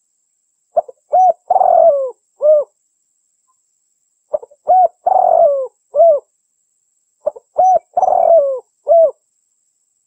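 Female derkuku dove cooing: three phrases about three seconds apart, each a couple of short coos, a longer coo that falls in pitch, then one last short coo.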